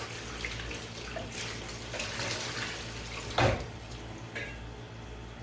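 Dry pizza-dough ingredients being stirred in a mixing bowl: a steady scraping swish, with one sharp knock about three and a half seconds in.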